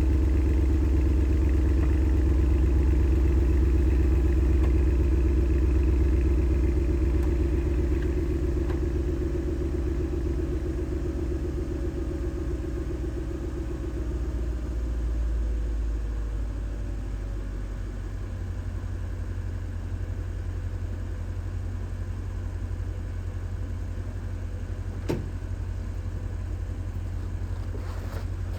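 Porsche Panamera Turbo S twin-turbo V8 idling after a cold start: the raised cold-start idle gradually settles into a lower, quieter idle and then holds steady. A single short click sounds near the end.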